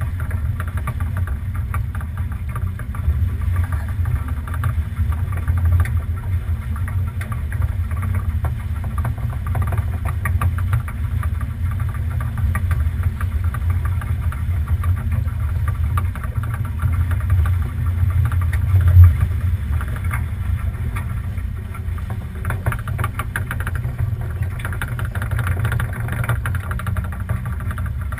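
Steady low rumble of wind buffeting a GoPro's microphone aboard a sailing boat, mixed with rushing water and small knocks, with one brief louder gust about two-thirds of the way through.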